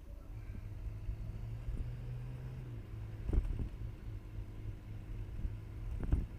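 Motorcycle engine running at a steady speed while riding, a steady low hum with road rumble, and two brief knocks, about three seconds in and near the end.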